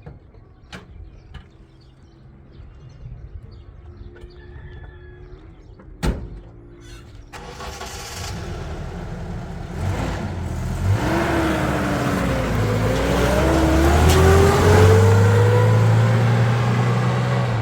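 A motor vehicle's engine coming in and growing louder, its pitch dipping and then rising as it accelerates. Before it there are a few light clicks and one sharp knock about six seconds in.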